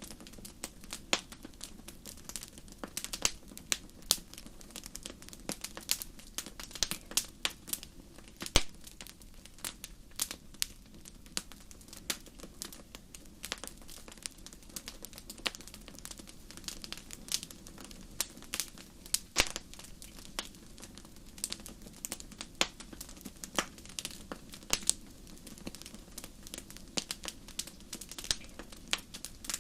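Wood campfire crackling: a dense, irregular run of small pops and snaps, with a few louder snaps, over a low steady rush of the flames.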